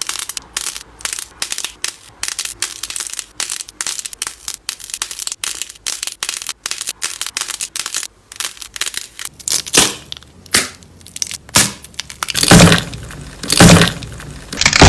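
Crunchy slime being pressed and squeezed: rapid sharp crackles, several a second, then from about two-thirds in slower, louder crunching presses, the loudest two near the end.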